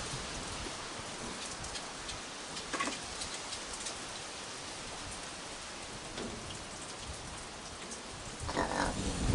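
Steady rain falling and pattering on surfaces, with a brief noise about three seconds in and another near the end.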